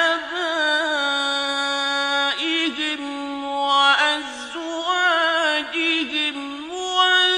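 A male voice recites the Quran in the slow, melodic mujawwad style, holding long, wavering, ornamented notes with a few brief pauses.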